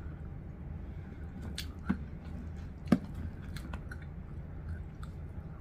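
A person chewing fried chicken dipped in gravy, with a few scattered sharp mouth clicks and crunches, the strongest about three seconds in.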